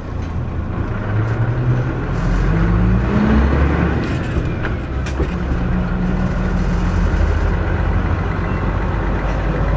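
Mitsubishi Fuso New Aerostar (KC-MP317M) city bus pulling away from a stop, heard from inside the cabin: its diesel engine revs up with rising pitch, drops at a gear change about four seconds in, then pulls on steadily in the next gear.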